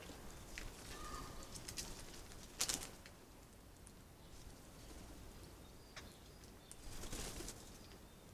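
Faint garden birds with a few brief flutters, the loudest a little under three seconds in and another around seven seconds, and a short thin call about a second in.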